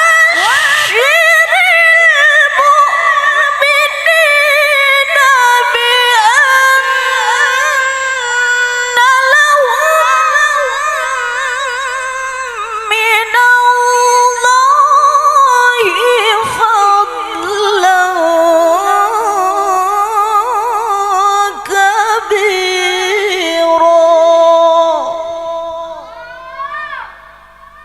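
A woman reciting the Quran in the melodic tilawah style. It is one long unbroken phrase, sung high with ornate turns and wavers of pitch, and it fades out near the end.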